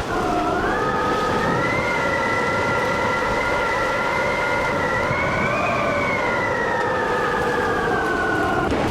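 A siren sounding one long held wail over a steady rushing noise. Its pitch climbs in the first second, rises a little more to a peak around the middle, then slowly falls before it cuts off near the end.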